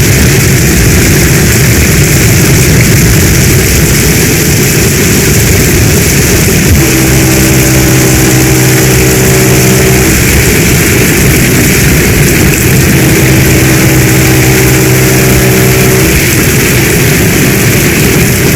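Heavy rain pouring steadily, a dense continuous hiss. Twice, for about three seconds each, a low hum with several overtones rises out of it.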